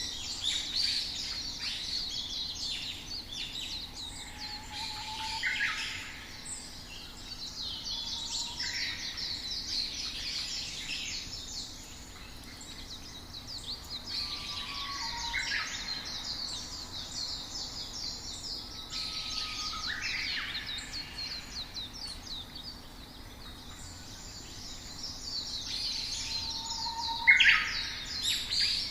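Songbirds chirping and singing in a dense, overlapping chorus of quick high chirps and trills, with a few short lower whistled notes.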